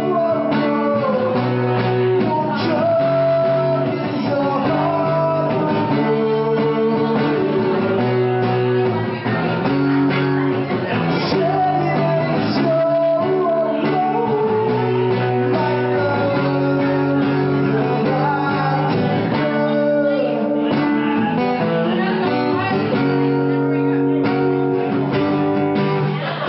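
Live music: guitar played with a singing voice.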